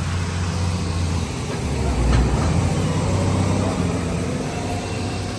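A vehicle running: a steady low hum that swells into a louder rumble around the middle, with a brief click about two seconds in.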